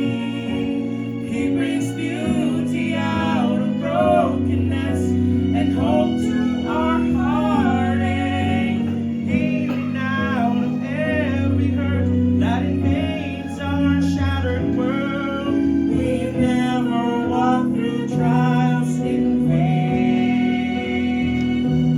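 Gospel song: a voice sings long, wavering, ornamented runs over steady, sustained instrumental accompaniment.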